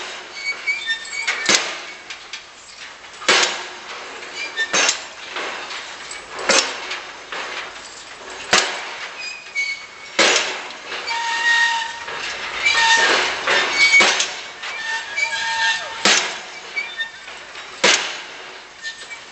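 An excavator on a barge striking heavily and repeatedly, about ten loud metallic blows spaced every second and a half to two seconds. Between the blows come metal squeals and clinks.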